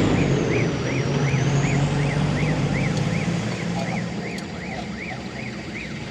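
A repeating electronic warble, each chirp rising and falling in pitch, about three a second, over a vehicle engine running low that fades after a couple of seconds.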